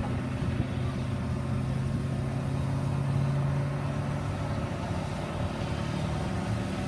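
Ford Powerstroke diesel pulling truck's engine running steadily, its note rising slightly about three seconds in.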